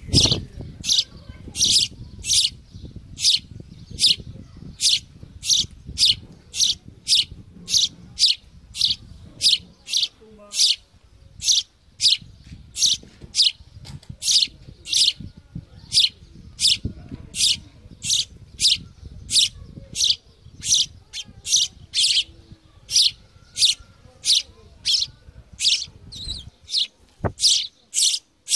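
Small bird chicks chirping in a steady, even run of short high chirps, about three every two seconds: the begging calls of young birds waiting to be fed. A faint low rumble runs underneath until near the end.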